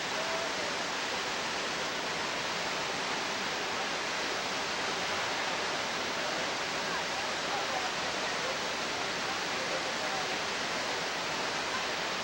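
Steady rush of a waterfall: water pouring and splashing in an unbroken roar of noise.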